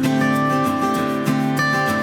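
Background music: acoustic guitar playing a tune.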